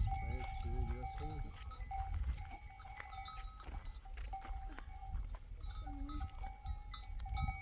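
Flock of sheep and goats with neck bells ringing and clinking steadily, and a few bleats in the first second or so, another about six seconds in.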